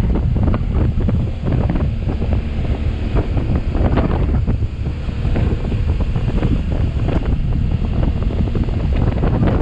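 Heavy wind buffeting on the microphone of a moving motorcycle, rushing and gusting in uneven bursts. The motorcycle's engine runs underneath it.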